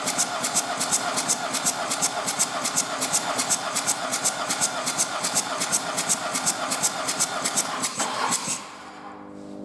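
Volkswagen Polo 1.4 TDI three-cylinder diesel engine (AMF) turning over on a test stand with an even, pulsing clatter. It stops suddenly about eight and a half seconds in, leaving a faint steady hum.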